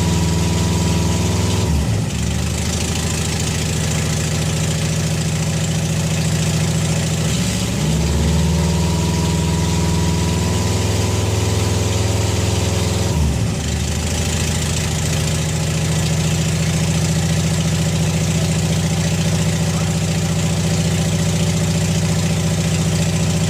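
Replacement junkyard Subaru flat-four engine in a 2002 Impreza WRX idling steadily on its first start-up after the swap. It blips up in revs about eight seconds in and briefly dips in speed near two and thirteen seconds in. It runs well and sounds good.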